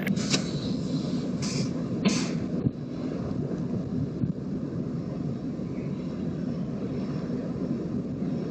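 Diesel locomotive idling with a steady low rumble, with a few short bursts of hiss in the first two seconds.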